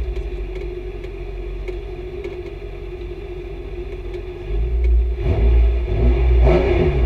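BMW M3 E46 CSL rally car's straight-six engine idling, heard from inside the cabin; about four and a half seconds in it gets louder and is revved up and down repeatedly while the car stands at the stage start.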